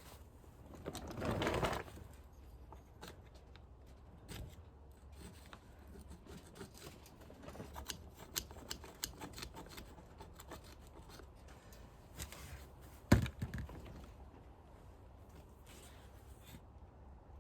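Hand tools and metal engine parts being handled: scattered small clicks and scraping, a louder rustling scrape about a second in, and one sharp knock a little past the middle.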